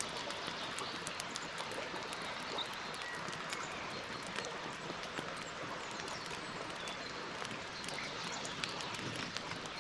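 Campfire crackling steadily, with frequent sharp pops and snaps over a constant hiss of burning wood. Faint short bird chirps come through now and then.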